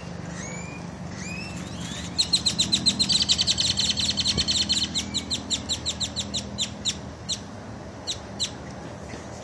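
Birdsong: a few short rising chirps, then about two seconds in a fast run of sharp repeated notes that gradually slows and thins to a few single notes, over a faint steady low hum.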